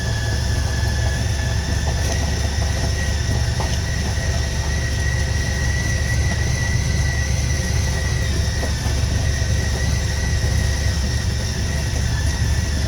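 Vehicle engine running steadily while creeping along at low speed, a heavy low rumble with a thin high-pitched whine over it.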